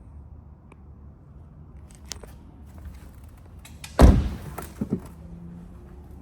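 A car door slamming shut: one loud thump about four seconds in, then two smaller knocks.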